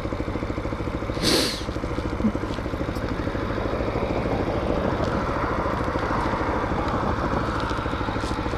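Hawk 250 dual-sport motorcycle's single-cylinder engine running steadily at an even speed while riding, with a brief hiss about a second in.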